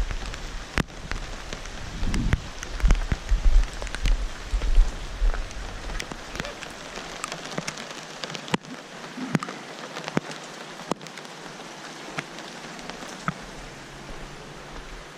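Heavy rain falling, with many sharp drops pattering on a surface. A low gusty rumble runs through the first six seconds or so, then drops away.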